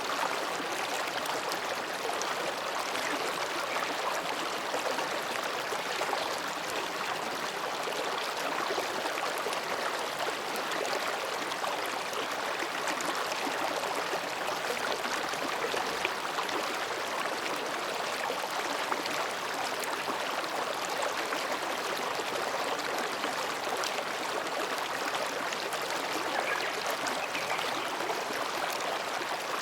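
Mountain stream flowing quietly between rocks, a steady babbling of water.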